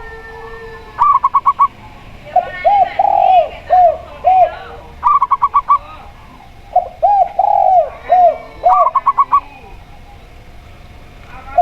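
Zebra dove and spotted dove cooing in turn: quick runs of short, higher notes alternate with phrases of several lower, arched coos, the pattern repeating about every three seconds.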